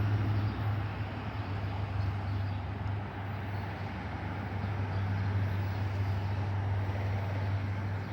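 Train running at a station platform: a steady low hum under a broad rumble. It eases about three seconds in, then builds again.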